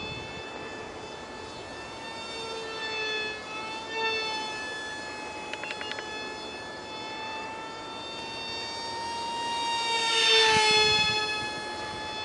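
Whine of an ultra micro RC jet's 8 mm direct-drive electric motor and propeller in flight, its pitch wavering slightly with throttle. It grows louder, passes close about ten seconds in with a slight drop in pitch, then fades a little.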